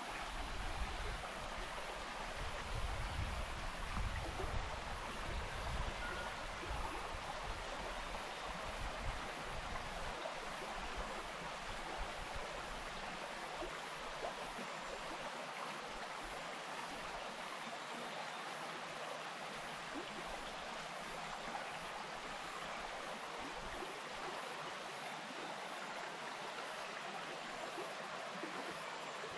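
Wainuitewhara stream flowing: a steady, even rush of running water. An uneven low rumble comes and goes through the first ten seconds or so, then fades.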